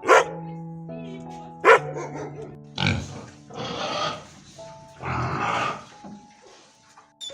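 A dog barks twice, then a pig grunts and squeals in three longer, rough calls, over background music with held tones.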